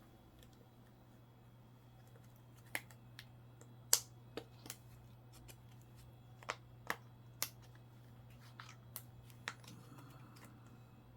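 Small sharp clicks and taps, about a dozen, scattered irregularly, from coins and plastic coin flips being handled on a desk, over a steady low hum.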